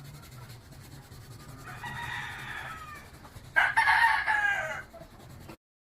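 A bird calling twice in long calls that fall in pitch, the second much louder, over a steady low hum; the sound cuts off abruptly near the end.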